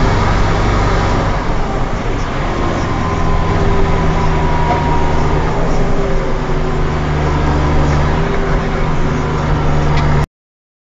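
New Holland TM190 tractor's turbo diesel engine running steadily, with a faint high turbo whistle over the engine note. It cuts off abruptly near the end.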